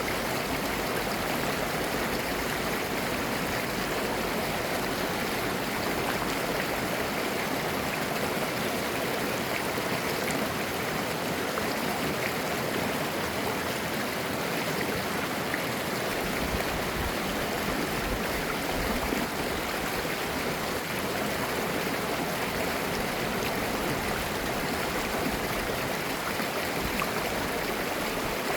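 Mountain stream flowing over rocks: clear water babbling and gurgling at a steady level.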